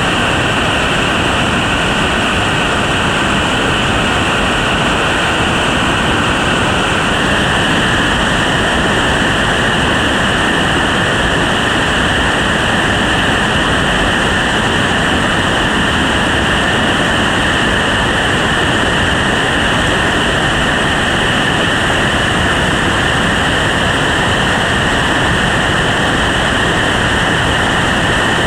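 Steady, loud rush of whitewater in a river rapid, continuous and unbroken.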